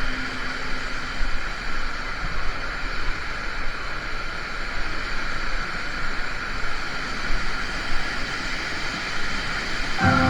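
Steady rushing of flowing water, with uneven surges in loudness.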